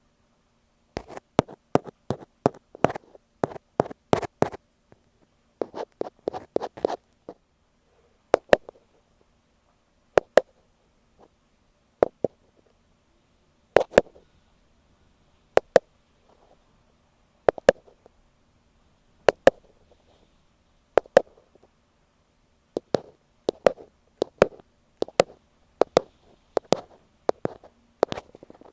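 Ear pick tapping directly on an earphone microphone, sharp close clicks. Quick runs of taps at the start and near the end, with slow single taps about every two seconds in the middle.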